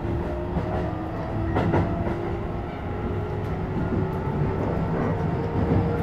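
Keisei 3000 series electric train running, heard from inside the car: steady wheel and track rumble, with the traction motor whine slowly rising in pitch as the train picks up speed. A sharp click about two seconds in.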